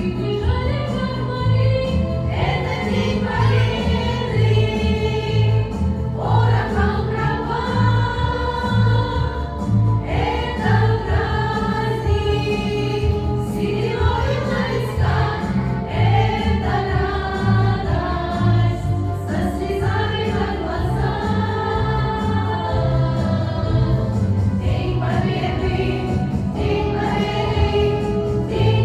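A choir singing a song over a steady rhythmic accompaniment.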